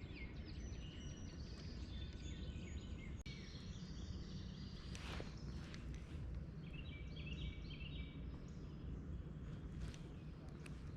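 Several birds singing at dawn, short chirps and repeated trilled phrases, over a low steady background rumble, with a brief swish about five seconds in.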